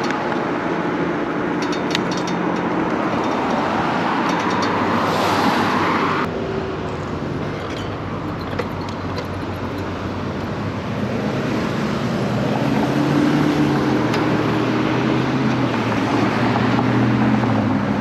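Road traffic going by: a rushing noise builds and cuts off suddenly about six seconds in, and an engine hum grows louder over the last several seconds as a vehicle approaches.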